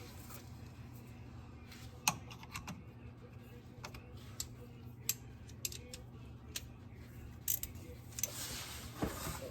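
Scattered light clicks and taps of small parts and tools being handled while the fuel pump and its hoses are fitted back on, over a steady low hum.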